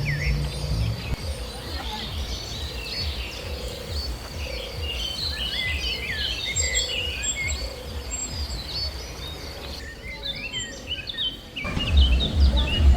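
Many small birds chirping at once, a dense chatter of short high calls, over a low outdoor rumble. Near the end the sound cuts, and a louder low pulsing beat of music begins.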